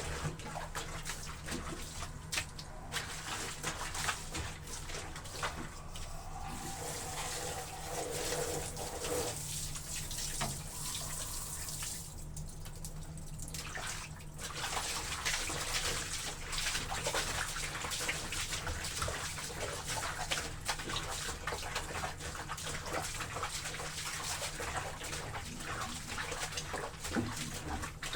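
Water sloshing and splashing as laundry is trodden underfoot in a basin of soapy water, with a steady run of small splashes.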